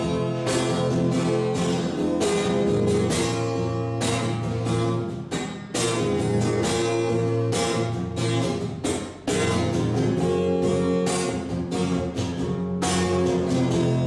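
Acoustic guitar strumming chords in an instrumental passage of a rock song, with no singing; the strumming dips briefly about two-thirds of the way through, then picks up again.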